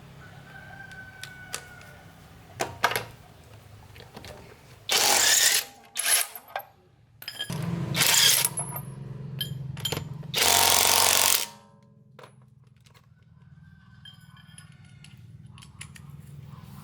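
Three short bursts of a power tool in a car-repair workshop, each lasting under a second, with a few clicks between them and a steady low hum setting in about halfway through.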